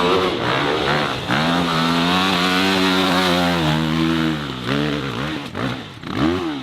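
Dirt bike engine revving hard and holding high revs, then the throttle is chopped and blipped a few times, with one last quick rev up and down near the end.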